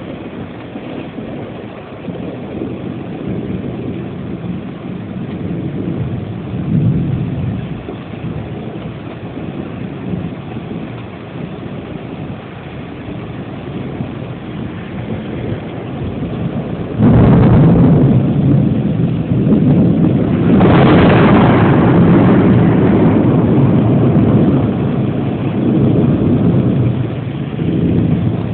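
Thunder during a storm: a low rolling rumble, then a sudden loud crack about 17 seconds in and a second, sharper one a few seconds later, which roll on in a long, heavy rumble.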